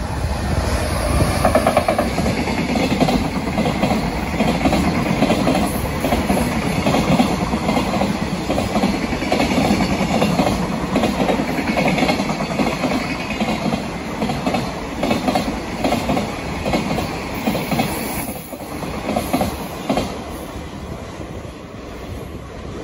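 Freight train passing close by, its wagons clattering rapidly over the rail joints; the clatter eases near the end.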